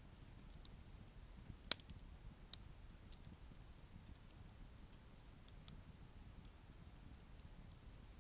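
Wood campfire crackling faintly: scattered small snaps, with one sharp pop about two seconds in, over a low steady rumble.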